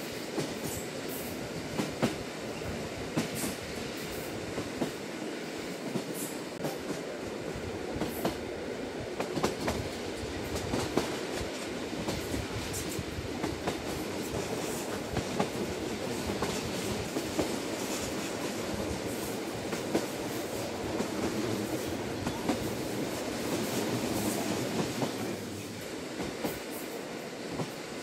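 Lilac limited express train running at speed, heard from inside the carriage: a steady rumble of wheels on rail with irregular clicks and knocks from the track. The rumble eases briefly near the end.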